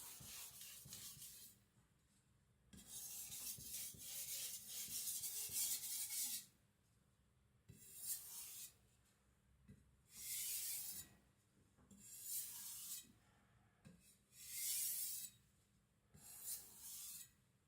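Edge of a thin Victorinox Chinese cleaver swept lightly across a whetstone, making soft rasping scrapes. There is one long stroke a few seconds in, then a string of shorter strokes about every two seconds, while the final, uniform edge is being set.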